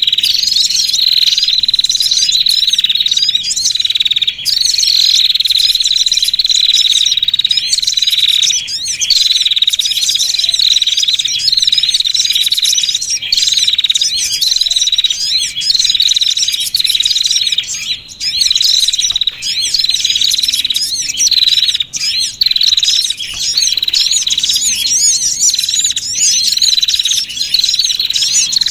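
Bird-lure recording of small songbirds: dense, high-pitched, rapid chirping and twittering over a continuous high trill, the pattern seeming to start over every few seconds like a loop. It is a call played to draw small birds such as the sogon in.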